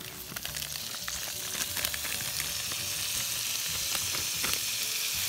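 Vegetables and meat sautéing in butter in a hot skillet: a steady frying sizzle that grows louder as the food heats, with a few clicks of stirring.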